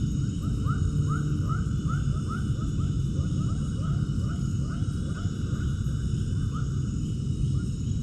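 Animal calls: a rapid series of short, rising chirps, several a second, fewer toward the end, over a steady low rumble.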